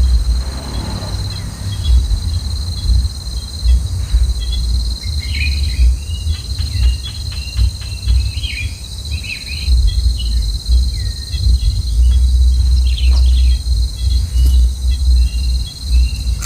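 Short high bird chirps come and go over a steady, high insect-like drone, with a low, uneven rumble underneath that is the loudest part.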